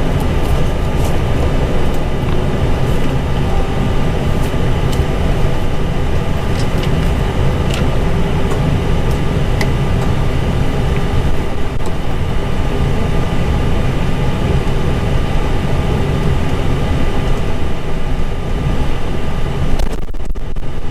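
Steady cockpit noise of an Airbus A320 taxiing after landing: a continuous low rumble with a steady hum, the engines at taxi idle. A few faint clicks.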